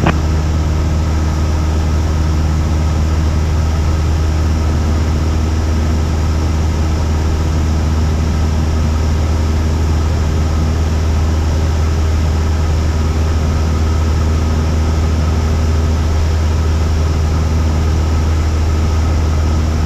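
Cessna 172's piston engine and propeller droning steadily at cruise power, heard inside the cabin.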